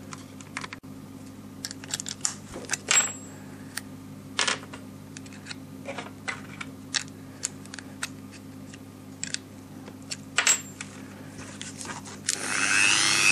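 Scattered small metallic clicks and clinks as the bit on a handheld rotary grinding tool is changed. Near the end the tool's motor starts and spins up into a loud, steady whine.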